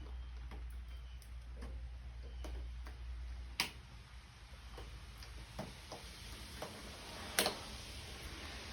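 Small ticks and clinks of hand work on a lawnmower wheel as the tire is taken off, with two sharp, louder metallic clicks, one about halfway through and one near the end. A low hum is present until the first loud click and then stops.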